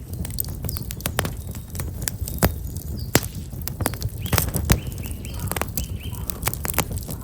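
Black locust firewood burning in a bonfire, crackling with many sharp pops over the low rush of the flames. A small bird chirps a few short notes in the middle.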